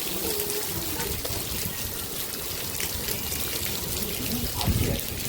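Rain falling steadily, with many small drop ticks, and wind buffeting the microphone with a low rumble. A stronger gust about four and a half seconds in.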